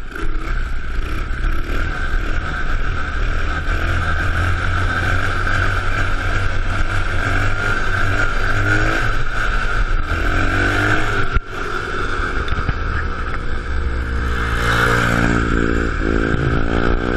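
Small off-road vehicle engine running and being revved, its pitch rising and falling repeatedly, with a long rise in pitch near the end.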